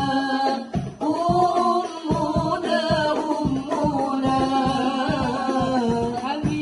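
Sholawat, an Islamic devotional song in Arabic, sung with a steady beat of frame drums underneath the melody.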